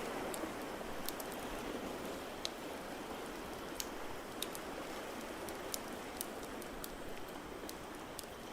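Fireplace crackling in sharp, irregular pops over a steady wash of water noise.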